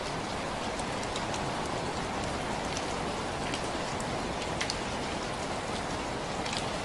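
Steady rain, a constant hiss with many separate drops ticking sharply on a hard surface.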